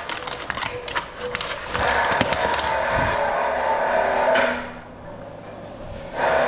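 An electric power tool's motor running with a steady hum, cutting out twice: clicks and knocks of metal being handled fill the first gap, and the motor winds down to a lower level near the end before starting up again.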